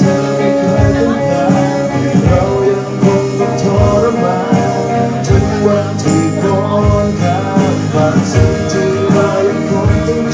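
Rock band playing an instrumental passage of the song, with guitar over a steady drum beat.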